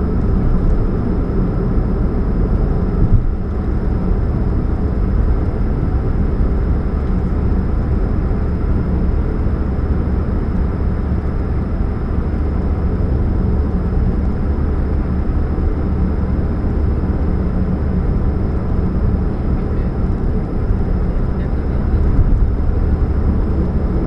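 A 2013 Chevrolet Spark running, with a steady low hum, which the owner puts down to a leaking catalytic converter.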